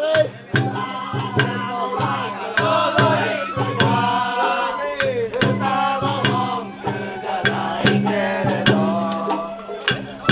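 Sawara-bayashi festival music played on the float: a wavering bamboo flute melody over taiko drum strokes and sharp metallic beats, keeping a steady beat of about two strokes a second.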